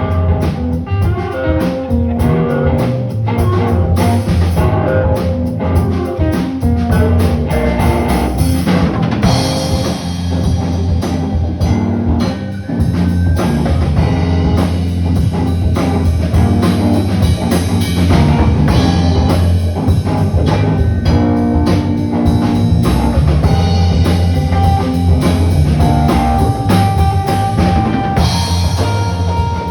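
A live band playing an instrumental rock passage: drum kit and guitar over a strong low bass line, loud and steady with no singing.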